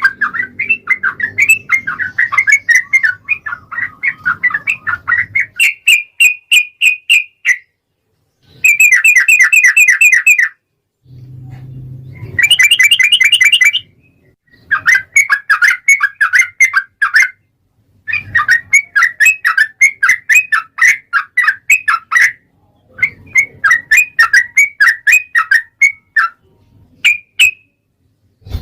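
Yellow-vented bulbul (trucukan) singing fast, bubbly chattering phrases of a few seconds each, about eight in a row, separated by short pauses.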